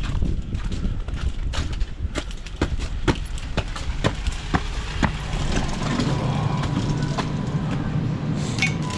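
Footsteps of a person walking, sharp regular steps about two a second for the first five seconds. After that a steady low hum with a faint high tone takes over.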